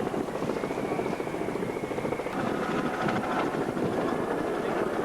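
Steady engine drone with a fast, even pulsing, and a faint high whine over it that shifts lower about halfway through.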